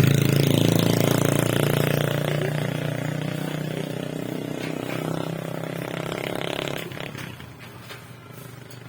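Small 50cc motorcycle engine running just after starting, a steady idle that slowly eases and drops away about seven seconds in.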